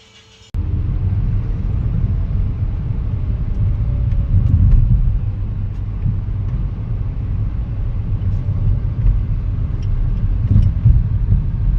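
Hyundai Aura on a test drive: steady low rumble of the car running on the road, starting suddenly about half a second in. No steering-column knocking is heard: the "kutak kutak" knock is gone after the column repair.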